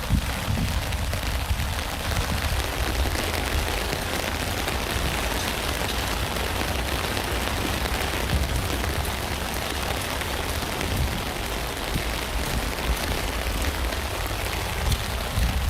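Steady rain falling on a tent, a dense even hiss of drop ticks over a deep rumble.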